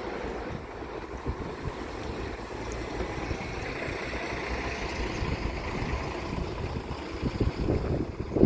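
Wind buffeting the microphone over a steady, noisy outdoor rumble, with a short loud knock right at the end.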